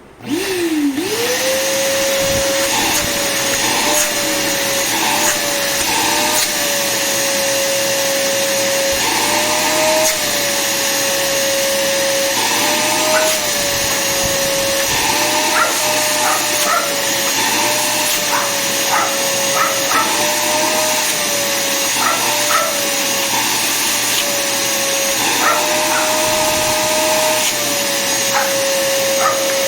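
Black + Decker 10 L wet and dry vacuum switched on, its motor spinning up within the first second into a steady whine over a loud rush of air. The pitch wavers up and down every second or two.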